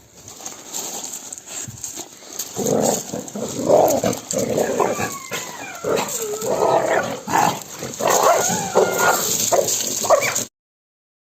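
Dog whining and yelping in pitched cries that rise and fall, cutting off suddenly near the end.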